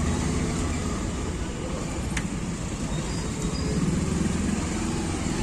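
Motorcycle engine running steadily while riding, with road and wind noise, and a single short click about two seconds in.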